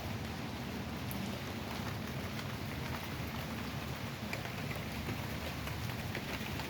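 Heavy rain falling steadily in a thunderstorm, with many small drop ticks on nearby surfaces.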